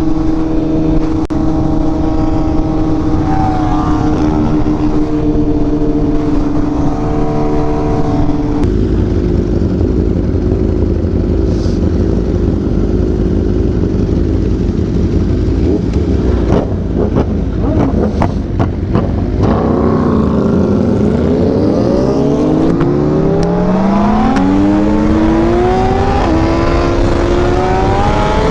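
Kawasaki Ninja H2 sport motorcycle engine running at steady revs while riding, with wind rush. About two-thirds of the way in the revs drop and then climb in rising sweeps as the bike accelerates through the gears.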